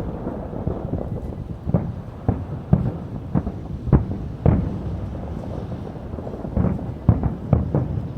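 Aerial fireworks shells bursting: a string of sharp booms over a continuous low rumble of further bursts, with a short lull about five seconds in before more booms follow.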